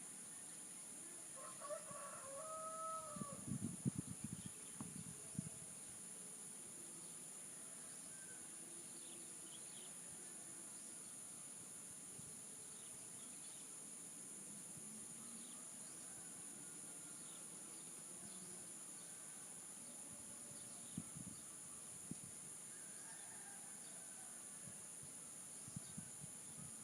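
A rooster crowing about two seconds in, followed by a brief burst of low knocks. A second, fainter crow comes near the end, over a steady high-pitched insect drone.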